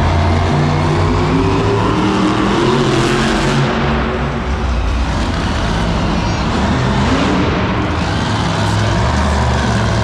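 Monster truck engine revving loud, its pitch climbing and dropping several times.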